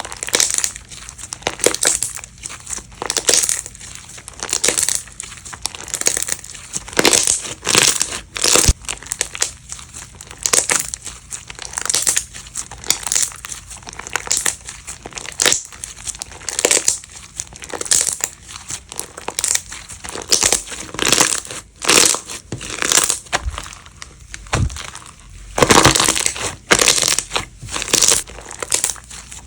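Slime being squeezed and pressed by hand, a steady run of short, sharp squishing crackles about one or two a second.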